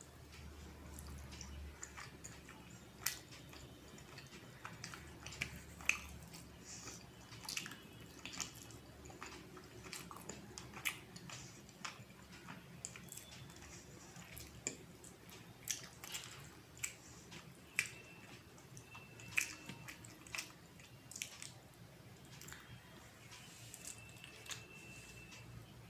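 Close-up eating sounds: chewing and wet, sticky mouth clicks and smacks at irregular intervals as someone eats rice with dal and fish curry.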